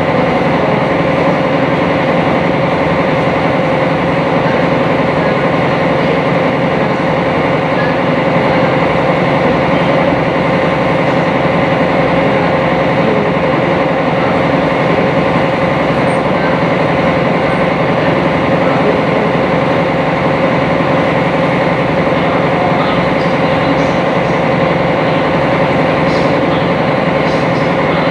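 Sightseeing boat's engine running steadily under way, heard on board: a loud, even drone with a steady hum that does not change.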